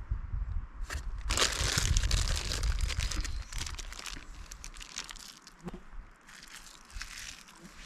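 Plastic food packaging crinkling and rustling as it is handled, densest in the first half, then lighter scattered crackles.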